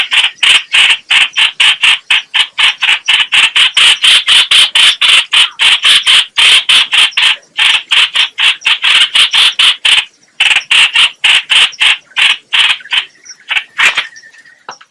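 Bird calling in a fast, harsh chatter of about five notes a second, the call of the bird known in Vietnamese as trao trảo (chao chảo, hoành hoạch), played as a lure call for trapping. The run breaks briefly twice and thins to scattered notes near the end.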